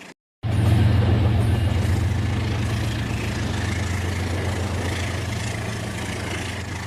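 Rail King model train running on its track: a steady low motor hum with wheel and rail rumble, starting suddenly and gradually getting quieter.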